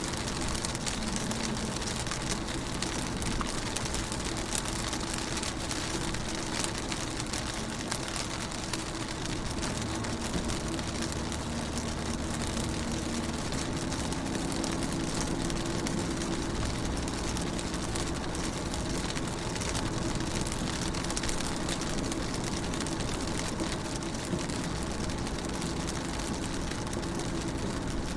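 Rain pattering on a car window, a steady hiss dotted with small drop ticks, with a low steady hum underneath.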